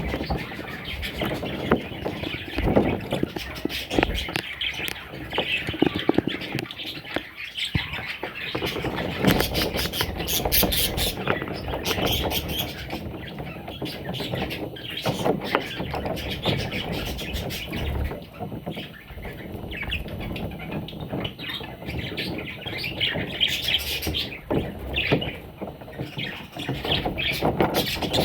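Budgerigar chicks squawking and chirping without a break, with scattered low knocks.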